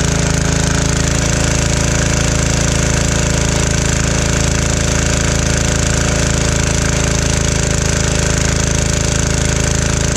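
Single-cylinder 196cc 168F diesel engine driving a generator, running at a steady constant speed under maximum electrical load.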